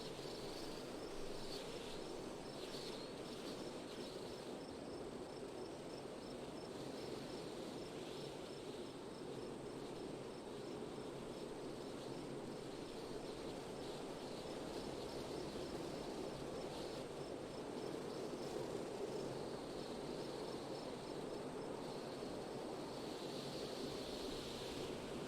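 Steady wind blowing, with a high, regular insect chirping, like a cricket, that fades out near the end.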